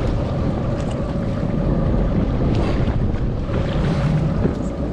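Boat engine running steadily as the boat moves across the water, with wind buffeting the microphone.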